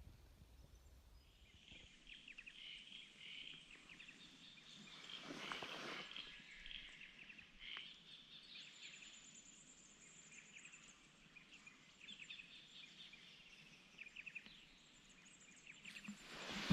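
Faint birdsong: many small birds chirping and twittering, with a thin high note held for a couple of seconds past the middle. A brief soft rush of noise comes about five seconds in.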